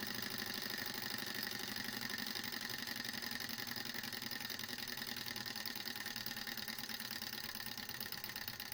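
Small desktop Stirling engine running at high speed, a fast, even mechanical rattle of its flywheel and pistons, getting slightly quieter toward the end.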